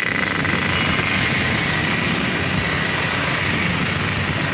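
A steady engine drone with a faint high whine running through it.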